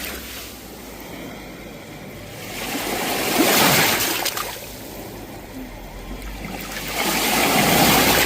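Sea waves breaking in surf: two waves swell up and wash in, one about three seconds in and another near the end, over a low steady rumble.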